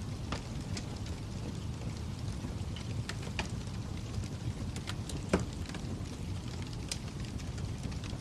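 Wood fire crackling: a steady low rumble of flames with scattered sharp pops and snaps, one louder pop about five seconds in.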